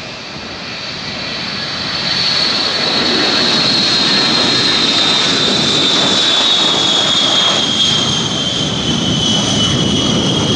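Jet aircraft engines running, a high whine sliding slowly down in pitch over a dense rushing noise. It gets louder about two seconds in, then cuts off suddenly.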